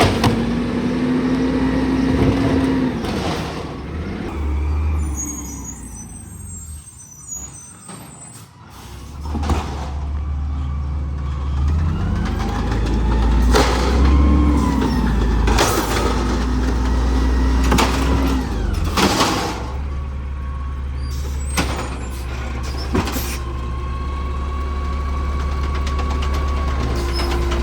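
Garbage truck working at the curb: its diesel engine runs and revs up and down, with several sharp bangs. It eases off in a quieter stretch about a quarter of the way in, then picks up again.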